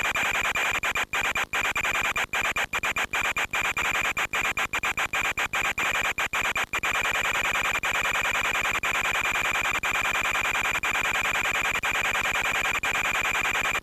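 Steady hissing noise with a high, unchanging whine, as heard in the onboard audio of an FPV model plane in flight. The sound drops out for split seconds many times between about one and seven seconds in.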